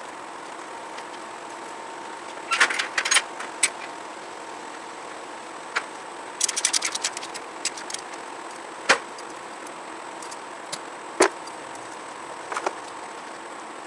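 Two bursts of rapid ratcheting clicks and a few single sharp metal clicks and knocks, over a steady faint hum: tool or strap work on a riding mower being secured and unbolted.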